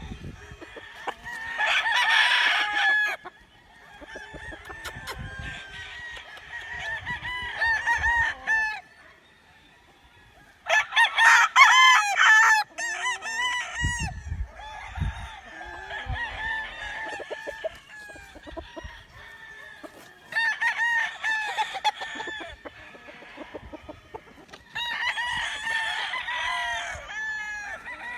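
Several roosters crowing, one after another and overlapping, in bouts of a few seconds, with clucking between the crows.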